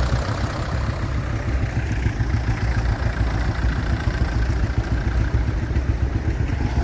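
Vintage tractor engines running steadily, with a deep low rumble.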